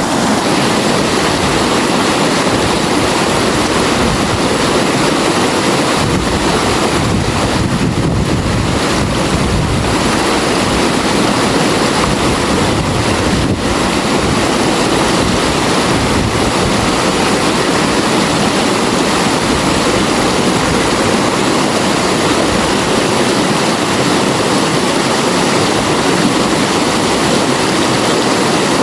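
River water flowing steadily, a continuous rushing sound with no breaks.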